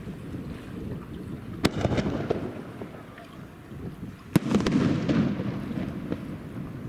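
Aerial fireworks bursting twice, about three seconds apart. Each burst is a sharp bang followed by about a second of rumbling crackle.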